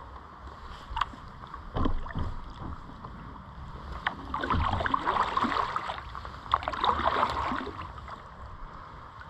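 Kayak paddle strokes splashing while water rushes over a small riffle, with a few sharp knocks about one and two seconds in and a busier stretch of splashing from about four to eight seconds in.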